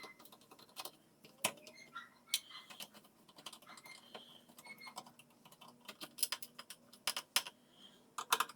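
Irregular light clicks and taps of small parts and hand tools being handled, with a few sharper knocks among them.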